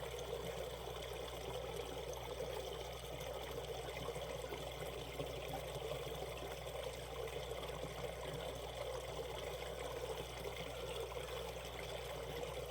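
Shallow mountain stream running over rocks: a steady babbling rush of water, with no change.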